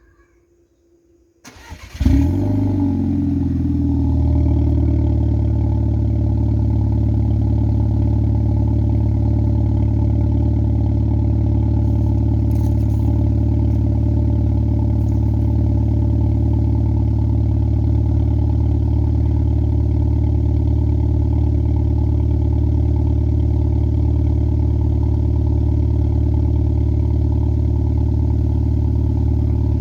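Skoda Fabia RS engine started from cold through an exhaust with the centre silencer removed. The starter cranks briefly, and the engine catches about two seconds in with a short flare, its loudest moment. It then settles within a couple of seconds into a steady, deep idle that holds unchanged.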